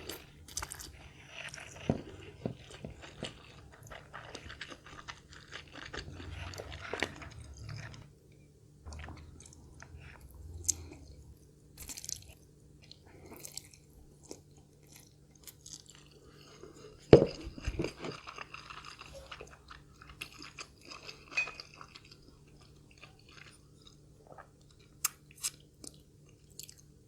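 Close-miked chewing of Indomie Mi Goreng fried noodles, with crunchy bites and many small, irregular mouth clicks. A sharp knock stands out about 17 seconds in.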